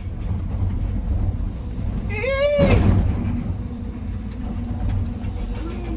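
Heavy diesel machinery running with a steady low rumble. About two seconds in, a short wavering call rises and falls, then a loud crash follows.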